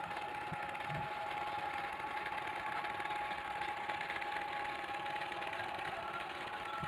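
Small battery-powered electric motor running steadily, driving the moving parts of a cardboard toy diesel engine. It makes a steady whine with a fast, dense clatter.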